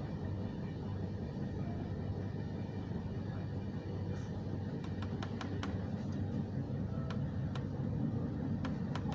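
A passenger train running, heard from inside the carriage as a steady low rumble, with a run of sharp, irregular clicks in the second half.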